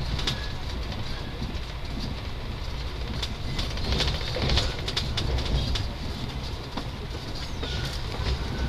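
Passenger train running, heard from inside the carriage: a steady low rumble with scattered, irregular clicks and rattles.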